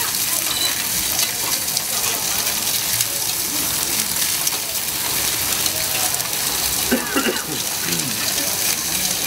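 Food frying at a street-food stall, a steady sizzle.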